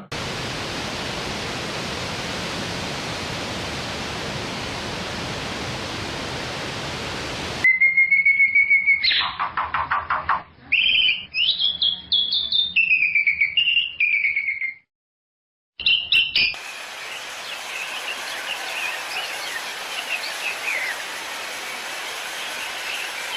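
A steady, even hiss for the first several seconds. It cuts off suddenly, and loud, high birds' chirping calls follow, gliding up and down and breaking off in quick runs. After a brief silence, fainter chirping continues over a low hiss.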